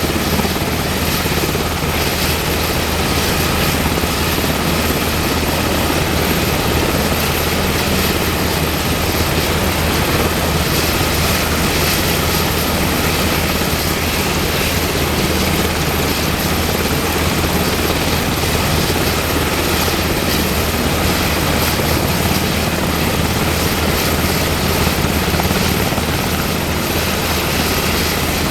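UH-60M Black Hawk helicopter running steadily, its twin turboshaft engines giving a high thin whine over a low, even drone from the rotor.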